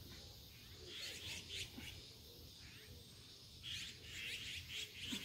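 Small songbirds chirping in quick runs of short calls: a bout about a second in and a busier one near the end.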